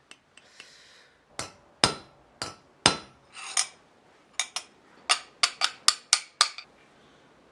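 A small hammer tapping a Japanese plane (kanna) a dozen or more times, setting the blade depth. The taps are sharp and irregular, coming faster in a run of quick taps in the second half.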